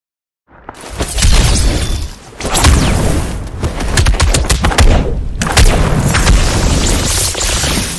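Designed fight sound effects: a rapid barrage of hits, deep booms and blasts, loud and dense, starting after a short silence.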